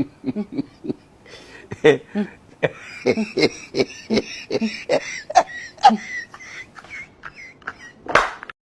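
A person's voice making quick, choppy non-word sounds, with a hissing noise over the middle and one loud burst near the end.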